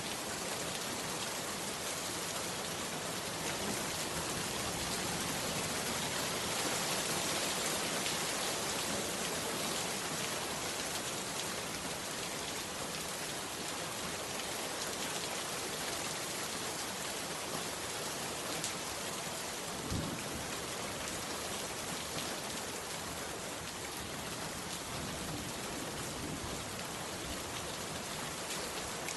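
Heavy rain falling steadily on a bamboo hut, a dense even patter. A single low thump comes about two-thirds of the way through.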